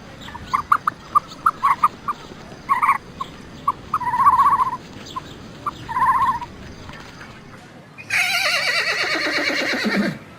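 Scattered short, high animal calls and two longer ones, then about eight seconds in a loud horse whinny lasting about two seconds, falling steeply in pitch with a quavering tremble.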